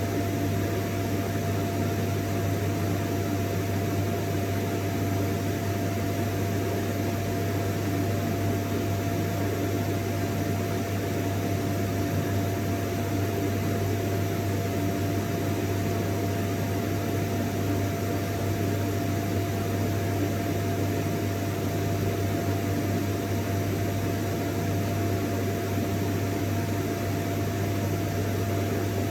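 Vacuum cleaner running at a steady speed: a low hum and a thin steady whine over an even rushing of air, unchanging.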